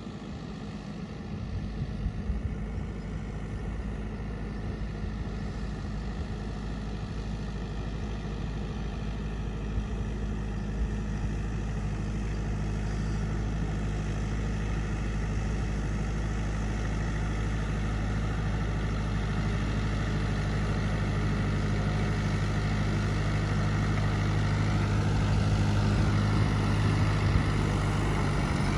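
VST compact tractor's diesel engine running steadily, its low, even engine note growing gradually louder.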